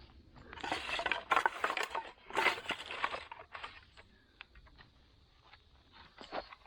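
Clattering and clinking of hard objects being handled, a busy run of knocks and rattles for about three seconds, then a few scattered clicks.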